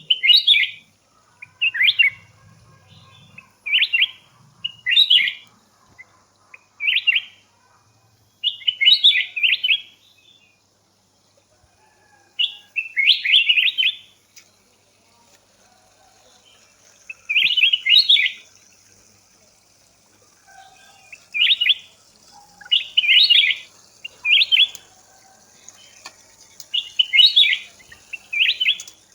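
A songbird singing short, repeated chirpy phrases, about fifteen of them, each under a second long and a second or two apart, with a longer gap around the middle.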